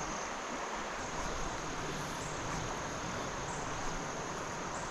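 Steady rushing of a small mountain stream, with a thin, high, continuous insect trill over it.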